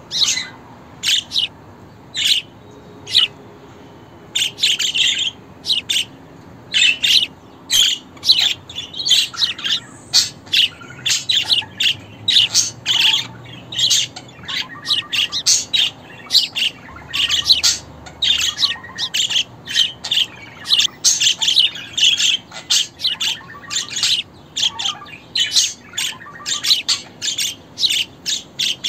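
Budgerigars chirping and chattering: many short, high chirps in quick, irregular runs with brief gaps.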